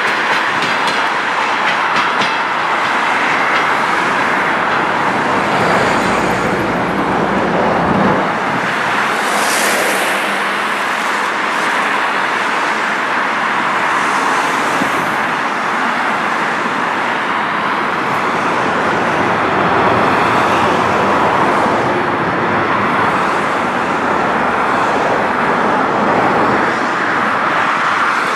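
Wheels of DR1A diesel-train trailer coaches clicking over rail joints as the last coach passes close by at the start, then a steady rolling rumble as the train moves away, blending with road traffic noise.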